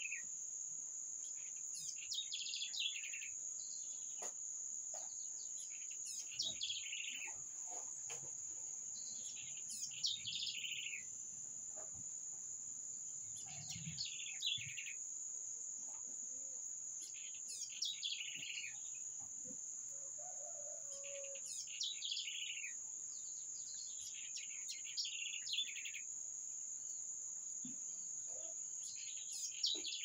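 A songbird repeats a short song phrase that slides downward in pitch, about every three to four seconds, over a steady, high-pitched insect trill.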